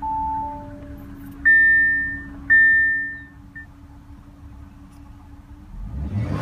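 Audi Q7 cabin chimes: a two-note ding-dong falling in pitch, then two louder, higher single chimes a second apart, over a steady hum. Near the end the 3.0-litre supercharged V6 cranks and fires on push-button start.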